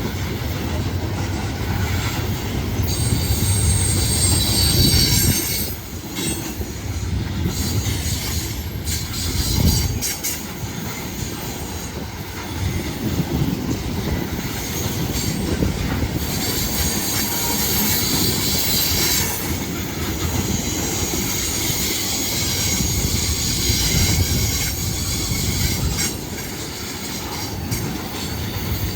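Freight train cars rolling past with a steady heavy rumble and clatter, their wheels squealing in stretches that come and go.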